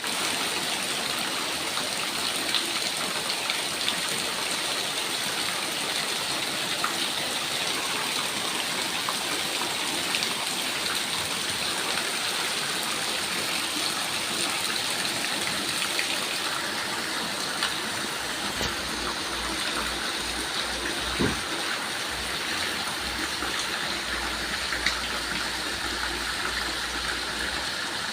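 Heavy rain falling steadily, with scattered sharper drips and splashes ticking through it.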